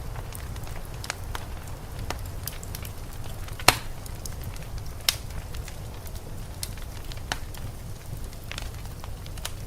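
Wood fire crackling in a fireplace: scattered sharp pops, the loudest a little over a third of the way in and another soon after, over a steady low rumble.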